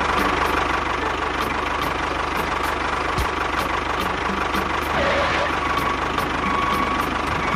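Small motor of a DIY mini tractor running steadily with a whine, over a light regular ticking about two or three times a second. A short gliding squeak comes about five seconds in.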